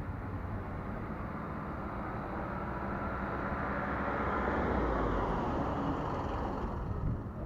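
A car's engine running as it drives slowly past, its sound swelling to a peak about five seconds in and then falling away.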